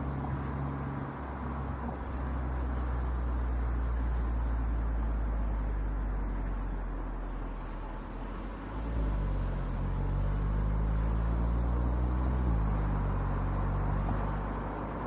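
Car driving on an expressway, heard from a roof-mounted camera: steady tyre and wind noise over a low engine hum. The hum shifts in pitch about nine seconds in and again near twelve and a half seconds.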